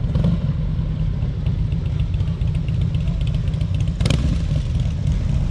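Car engine running steadily with a low rumble as cars roll in, with one sharp knock about four seconds in.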